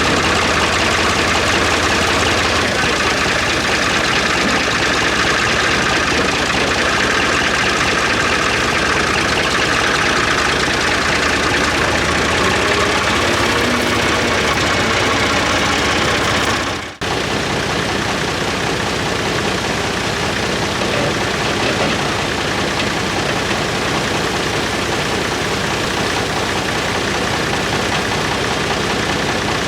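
An engine running steadily, cut off by a brief sudden drop about seventeen seconds in before it carries on.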